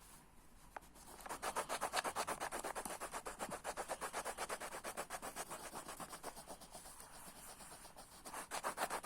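Coloured pencil scribbling quickly back and forth on a colouring-book page, about six scratchy strokes a second. It starts about a second in, eases off a little near the end, then picks up again.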